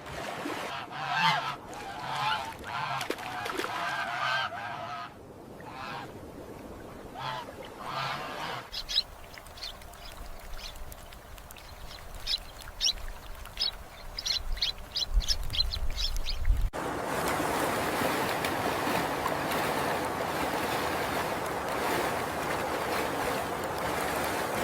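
Birds calling: a run of honking calls for the first few seconds, later a quick series of short, high-pitched calls, then a steady rushing noise with no calls over the last third.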